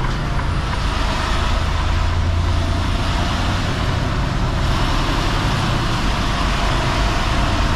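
Semi truck's diesel engine running steadily, heard from inside the cab: a constant low drone under an even rushing noise.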